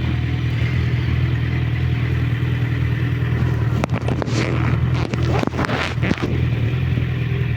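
Suzuki Bandit motorcycle's inline-four engine running at steady revs while riding, heard from the pillion seat. Around the middle come a couple of seconds of rustling bursts on the microphone.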